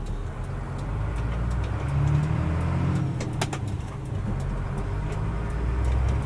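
Mercedes-Benz Unimog U500's turbo-diesel engine running on the move, heard from inside the cab, pulling a little harder about two seconds in. A brief sharp click about three and a half seconds in.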